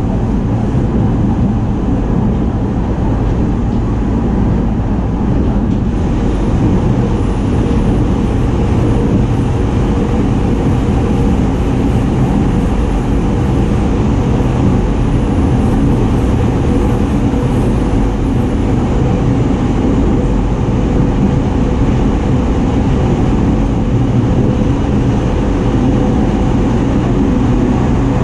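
Running noise of a JR 209-series electric train heard inside the carriage: a steady rumble of wheels on rail and the car's running gear, without breaks.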